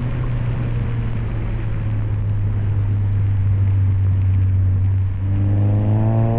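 2020 Subaru Impreza's 2.0-litre flat-four, heard through an aftermarket axle-back exhaust, running steadily at cruise over a constant wash of tyre noise on a snowy road. About five seconds in the sound dips briefly, then the engine note climbs as the car pulls harder.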